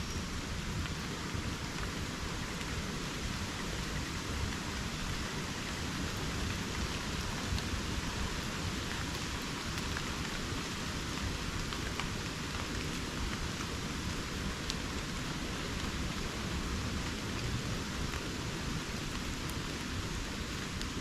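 Steady rain falling on rainforest, an even hiss with the odd single drop ticking close by.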